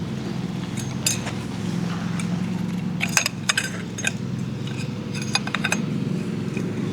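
Scattered light clinks and clicks of small hard objects being handled, a few at a time, over a steady low hum.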